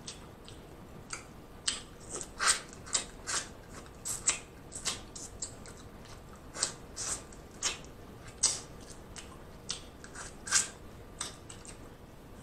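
Close-up chewing and wet mouth smacks while eating snow crab meat dipped in sauce: a run of short, irregular clicks and smacks, several to the second at the busiest.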